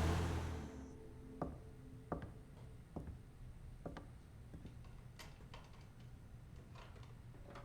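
A vehicle's noise fading out, then quiet with a few sharp clicks about a second apart and fainter taps after them.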